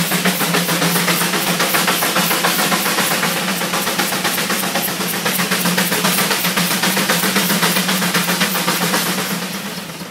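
Steam tractor's exhaust chuffing in a fast, even beat, several chuffs a second, while it works under load driving a sawmill. A steady low hum runs underneath, and the sound eases off near the end.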